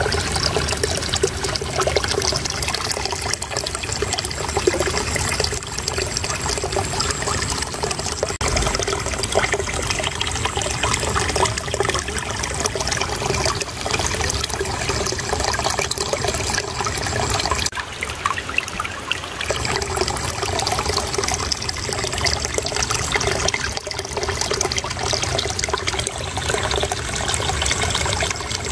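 Shallow water flowing and splashing over stones in a steady trickle.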